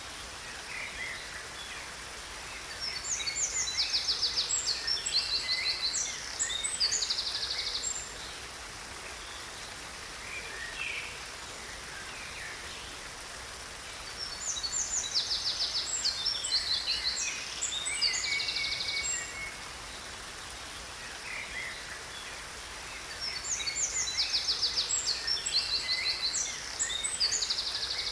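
A songbird sings the same long phrase of rapid high trills and chirps three times, each lasting about five seconds and coming about ten seconds apart, with softer chirps in between. Beneath it a waterfall makes a steady rush of falling water.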